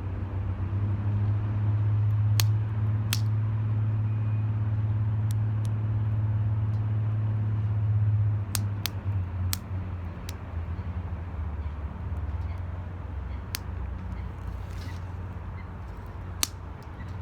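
Wood fire in a metal can crackling, with a dozen or so sharp, irregular snaps and pops, over a steady low rumble that eases and wavers about eight seconds in.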